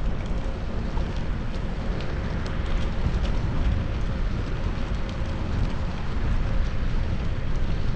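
Wind rushing over the microphone and a low road rumble from riding a bicycle, with scattered faint clicks and ticks.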